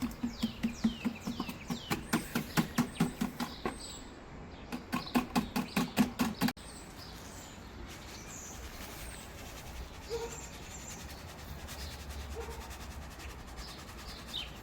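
Dry quail feed shaken out of a container over the fermented feed: two runs of quick, even rattling shakes, about five a second, stopping abruptly about six and a half seconds in. Quail chirp throughout.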